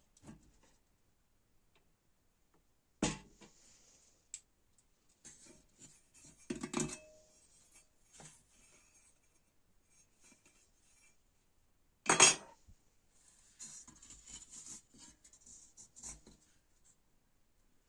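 Hand tools and metal parts clinking and knocking on a workbench during work on an old vacuum cleaner: a few scattered knocks, the loudest about twelve seconds in, with light scraping in between.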